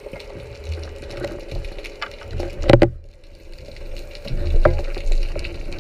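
Water sloshing and bubbling around a diving camera, with a steady hum and one loud, sharp knock a little under three seconds in.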